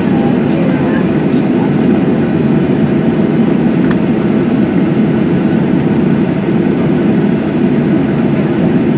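Steady engine and airflow noise inside the cabin of a Boeing 737-800 during takeoff, its CFM56-7B turbofans running evenly with a deep, unchanging rumble.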